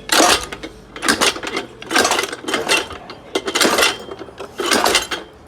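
Metal being struck by hand in uneven blows, about one a second and often in quick pairs, with a metallic clank on each blow.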